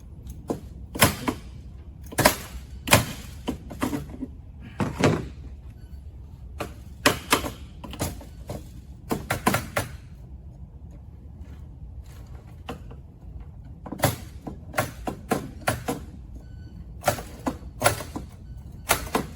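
Irregular sharp metal knocks and clanks from tools and parts being worked and fitted on a trike's drivetrain. Some come in quick runs of two or three, with a lull of a few seconds past the middle.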